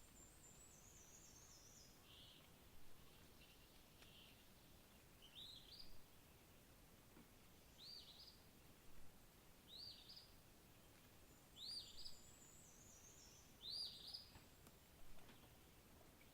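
Faint songbird calls: a short rising chirp repeated about every two seconds, and twice a quick, high run of notes stepping down in pitch, over a steady low hiss.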